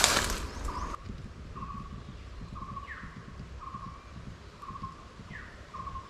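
Forest birdsong: a bird repeats a short, steady note about once a second, with two brief falling calls in between. A low wind rumble runs underneath, and a loud rush of noise fills the first second.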